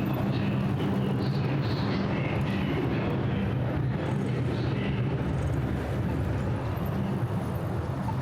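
City street traffic with a steady low engine hum under a constant wash of noise.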